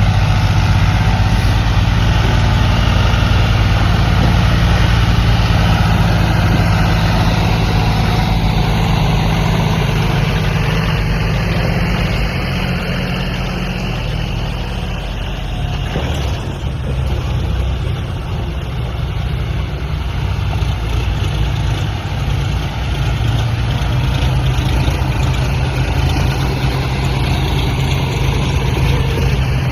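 Tractor engine running steadily at low revs. It grows a little quieter around the middle, then louder again.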